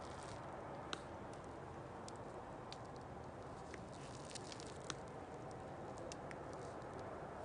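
Wood campfire crackling: irregular small pops and ticks over a steady low hiss.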